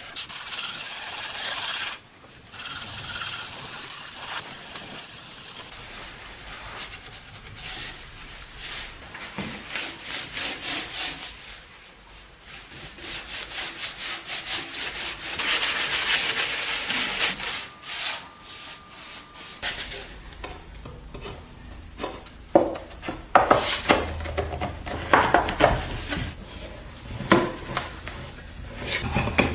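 Repeated back-and-forth abrasive strokes on wood, in quick rhythmic runs, as when the surface of a wooden cabinet is worked by hand. In the last several seconds the strokes are broken up by a few knocks and clatters.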